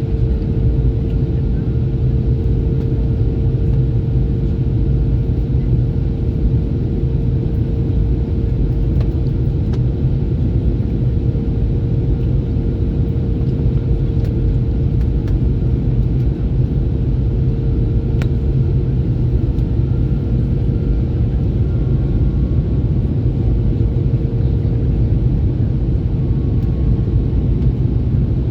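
Steady cabin noise inside an Airbus A321neo airliner in flight: a deep, even rumble of engines and airflow with a steady hum running through it.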